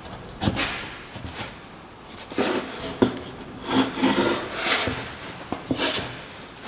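Hand work on white oak pieces: a series of short scraping or rubbing strokes of wood, with a sharp wooden knock about three seconds in.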